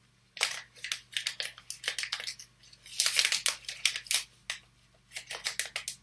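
Packaging being handled and unwrapped: a string of short, sharp crackles and snips, densest about three seconds in.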